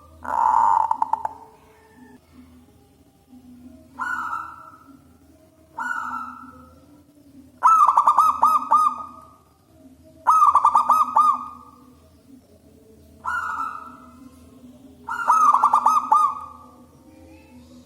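Zebra dove (perkutut) cooing loudly: about seven phrases of rapid pulsing coos, some short and some longer, over a steady low hum.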